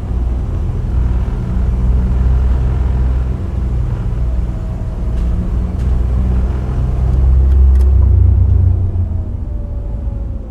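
Subaru WRX STI Spec C's turbocharged flat-four running through an A-RM aftermarket exhaust while cruising, a deep low rumble mixed with road noise. The rumble swells to its loudest about three-quarters of the way through, then eases, with a few faint ticks.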